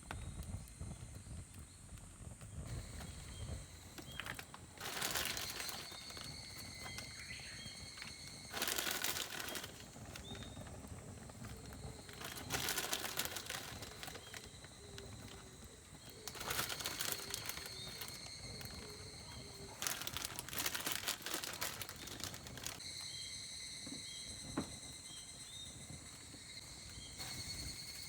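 Several one- to two-second bursts of crinkling, rustling handling noise a few seconds apart, over a steady high insect drone with small high chirps.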